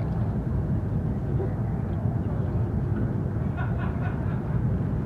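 Chinese high-speed bullet train running at speed, heard from inside the passenger cabin: a steady, deep rumble and rush of wheels and air.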